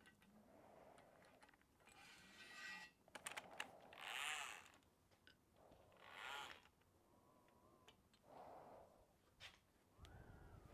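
Near silence, with faint scattered clicks and a few brief soft rustles of handling.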